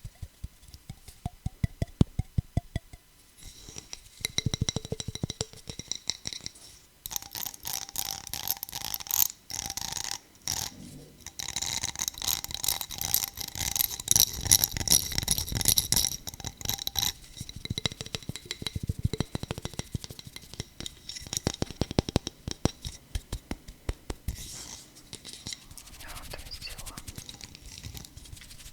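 Fast, loud tapping on hard objects, given in quick runs of taps. A bright scratching and rubbing stretch with a high ringing note fills the middle.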